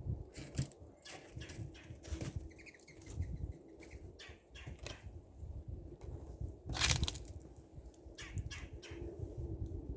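Birds at a feeder: quick wing flutters and sharp pecking taps, the loudest flurry about seven seconds in. A short run of chirps comes about two to three seconds in, over a low rumble.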